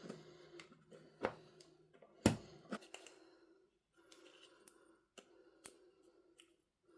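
Hands handling unboxing packaging and items: scattered light clicks and taps, with two sharper knocks about one and two seconds in, the second the loudest.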